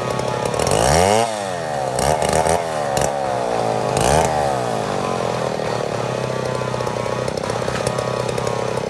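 Chainsaw engine idling, revved up and back down about four times in quick blips over the first five seconds, then settling into a steady idle.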